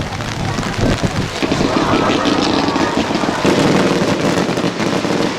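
Strong wind buffeting the microphone in heavy rain, a dense, continuous roar of noise.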